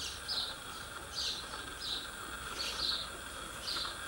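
A small bird chirping, short high calls repeated about once a second, some in quick pairs, over a steady insect drone.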